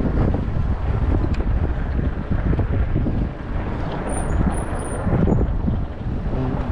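Wind buffeting the microphone of an action camera on a moving e-bike: a steady, uneven low rumble.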